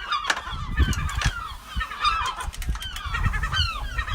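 Gulls calling over and over, many short, falling calls overlapping one another, with a low rumble on the microphone at times.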